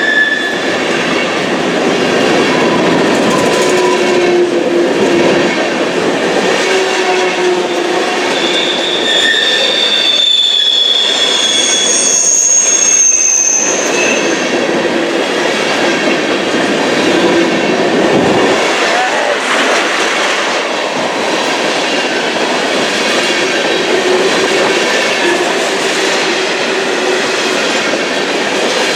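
Freight cars of a CSX ethanol train rolling steadily past at close range, their steel wheels squealing in short high-pitched bursts now and then over the steady rumble and clatter of wheels on rail.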